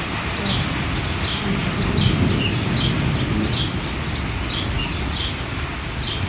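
A bird repeating a short high chirp about every three-quarters of a second over a steady hiss of rain. A low rumble of thunder swells about a second in and fades out a few seconds later.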